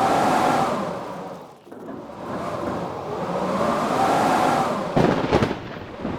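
Blizzard wind howling in gusts that swell and fade, with a whistling pitch that rises and falls. About five seconds in, a short burst of sharp cracking snaps.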